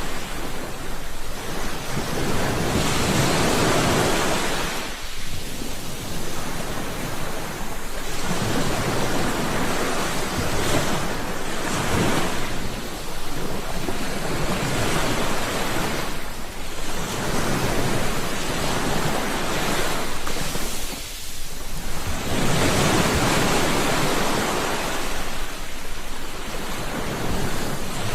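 Sea waves breaking and washing in, one swell of surf every few seconds over a steady rush of water.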